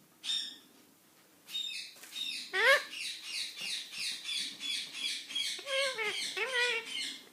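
Indian ringneck parrot chattering: a short call just after the start, then a long unbroken run of quick chirps and warbling glides.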